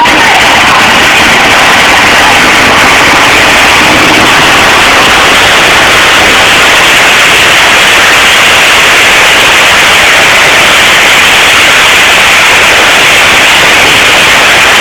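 Truck-pull truck's engine at full throttle during a pull, so loud that the phone's microphone is overloaded into a steady distorted roar of noise with no distinct engine note.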